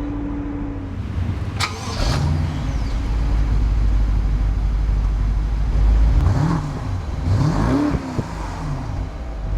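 2012 BMW Alpina B7's twin-turbo V8 idling, revved twice in quick blips about six and eight seconds in, the pitch rising and falling each time.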